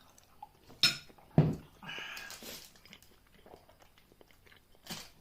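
Eating noises: a few sharp clicks of utensils against dishes, the loudest about a second and a half in, and a short hiss around two seconds in.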